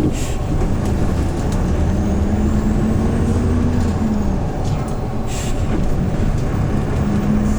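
Hyundai New Super Aero City CNG city bus engine running under way, heard from inside the bus as a steady low drone whose pitch rises and drops. Two short bursts of air hiss come just after the start and again about five seconds in.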